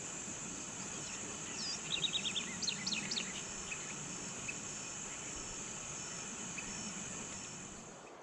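Steady high-pitched insect drone, with a bird giving a quick run of short chirps and falling notes about two seconds in.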